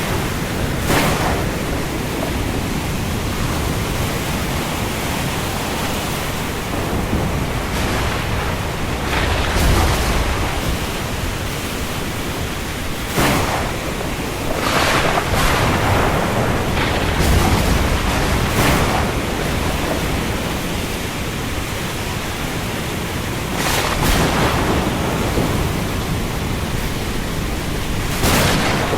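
Steady rain and wind over the open sea, with brief louder surges every few seconds.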